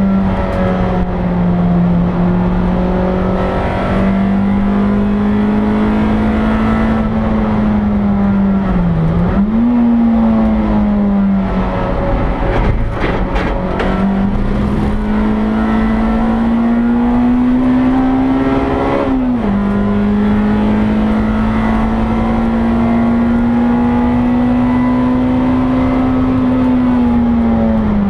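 Honda Integra DC2's four-cylinder engine running hard on track, heard from inside the stripped, caged cabin. The revs climb slowly in each gear and fall sharply at a gear change about twenty seconds in, with quick jumps in revs at downshifts about nine seconds in and right at the end. The engine note drops away briefly off the throttle around twelve to fourteen seconds.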